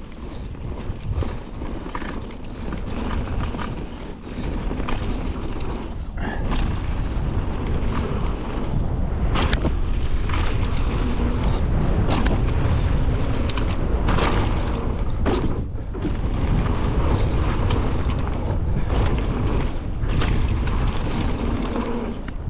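Mountain bike descending a trail: wind buffeting the microphone over a low rumble of tyres on dirt, with sharp knocks and rattles as it hits bumps, several of them between about six and sixteen seconds in.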